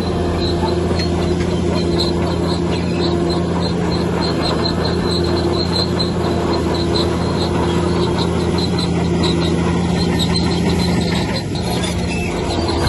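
Heavy diesel earthmoving machinery running steadily under load, with a high, rapid squeaking of about three or four squeaks a second. The engine note drops and changes about eleven seconds in.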